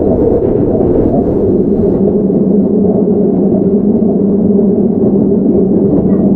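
Running noise inside a Keihan 9000 series electric train car with Toyo GTO-VVVF drive: a steady rumble of wheels on rails, with a steady low hum coming in about two and a half seconds in.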